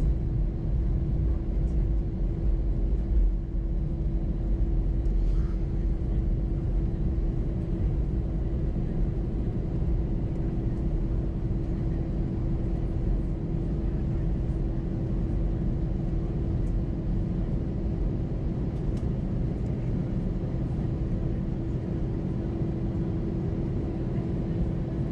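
Cabin noise inside an Airbus A320-212 taxiing after landing: a steady low rumble from the idling CFM56 engines and the rolling airframe, with a constant hum running through it.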